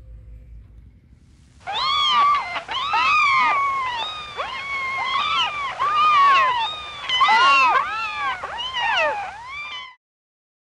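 Kittens mewing in a rapid run of short, high calls that rise and fall, some overlapping. The calls start about two seconds in and cut off abruptly near the end.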